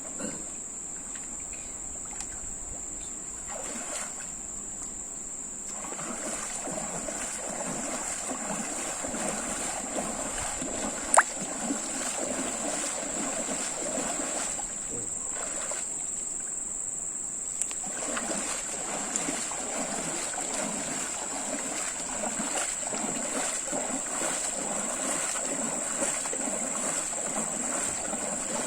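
River water splashing and flowing around a small boat, the splashing heavier from about six seconds in, over a steady high insect drone. One sharp click about eleven seconds in.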